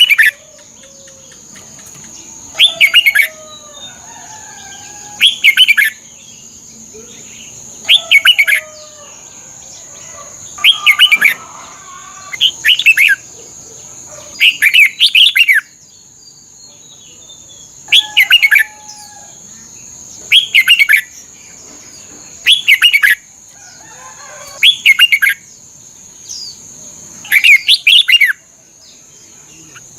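Red-whiskered bulbul singing: short, loud, warbling phrases repeated about every two to three seconds, with softer chatter between them over a steady high hiss.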